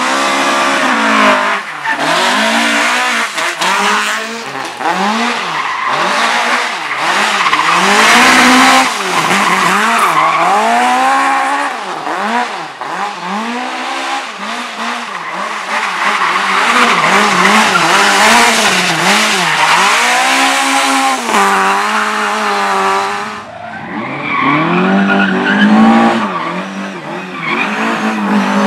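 Race car engine revving hard up and down over and over as it is thrown through a slalom course, with tyres squealing and skidding through the turns. About 23 seconds in, the tyre noise stops and the revs drop for a moment, then the engine climbs again.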